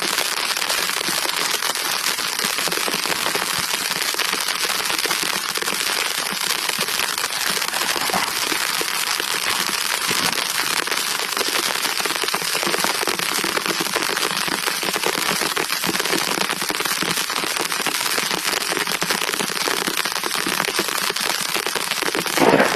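Rain falling steadily in a dense, unbroken patter of drops. A louder sound comes in right at the end.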